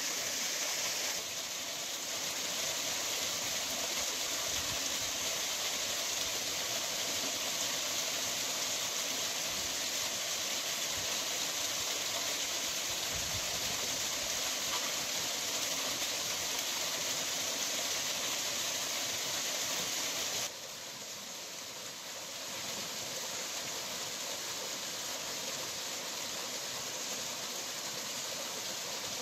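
Steady rushing hiss of a waterfall and stream. The level drops abruptly about a second in and again about two-thirds of the way through, then partly recovers.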